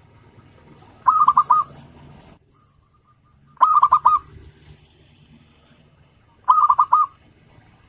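Zebra dove (perkutut) singing: three cooing phrases about two and a half seconds apart, each a rapid run of about five notes.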